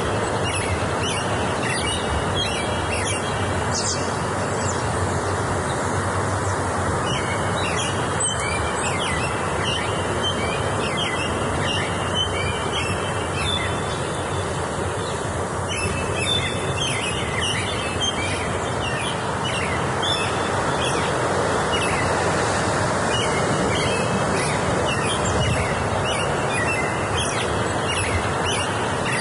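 Many small birds chirping and singing in overlapping short, high calls and trills, over a steady rushing background noise.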